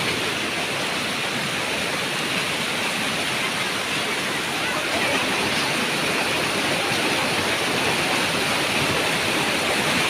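Rushing stream water flowing steadily.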